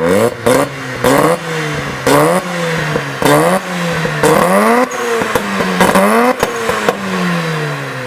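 Performance car engine revved through its exhaust in about six quick blips, each pitch leap falling back, with sharp cracks at the revs. It settles back towards idle near the end.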